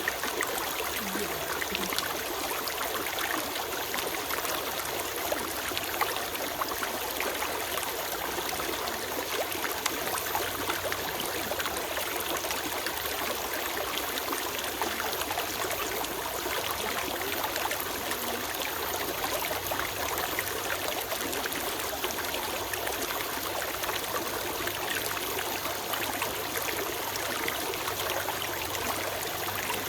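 A small stream running steadily, with a constant trickling, bubbling babble of water over stones.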